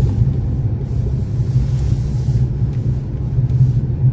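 Car engine and road noise heard from inside the cabin while driving: a steady low rumble, with a soft hiss that swells and fades in the middle.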